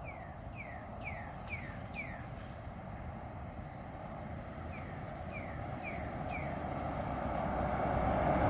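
A bird calling with a run of short, falling chirps, about five in the first two seconds and four more in the middle. Under it runs a steady rumble of a vehicle or traffic that grows louder near the end.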